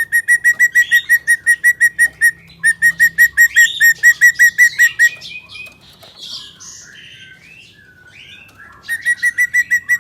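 A drongo (serigunting) singing: a loud, fast series of sharp repeated notes, about five a second, in two runs, then a stretch of varied chirps and squeaks. The repeated notes start up again near the end.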